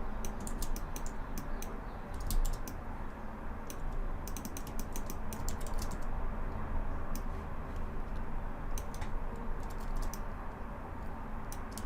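Computer keyboard keys being pressed in quick irregular clusters, with mouse clicks among them, over a steady low hum.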